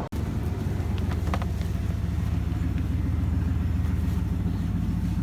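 Old pickup truck's engine running steadily with a low hum, with a few faint clicks about a second in.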